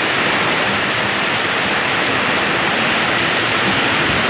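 Heavy rainstorm with strong wind: a loud, steady, dense rush of rain.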